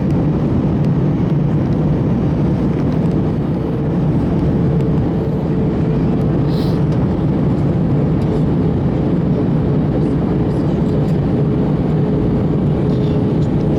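Steady cabin noise inside an Airbus A321 in flight: a loud, even hum of engines and airflow, with a faint steady whine running through it.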